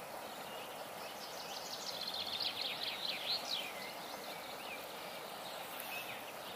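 A small bird singing a quick run of high, sweeping notes for about two seconds, over a steady outdoor hiss.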